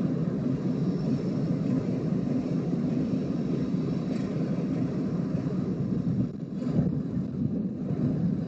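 Diesel locomotive of a railroad work train running with a steady low rumble, with a brief louder knock about seven seconds in.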